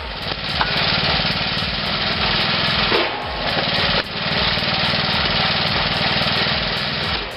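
Small petrol engine of a homemade wood splitter running steadily with a fast, even pulse, broken briefly about three and four seconds in.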